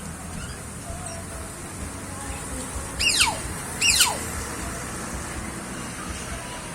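A bird in an aviary gives two loud squawks about a second apart, each sliding sharply down in pitch.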